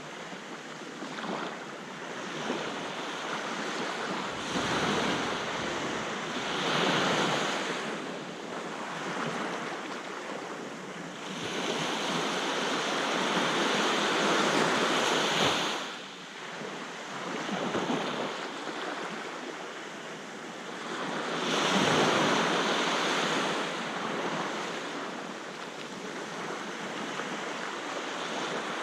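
Sea waves breaking and washing up a beach, the surf swelling louder three times and then falling back.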